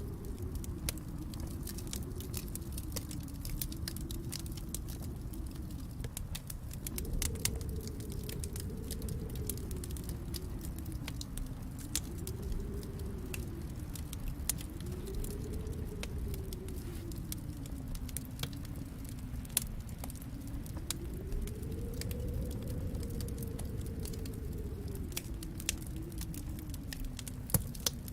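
Wood fire crackling, with scattered sharp pops over a low rumble, and a storm wind howling behind it that slowly rises and falls in pitch every few seconds.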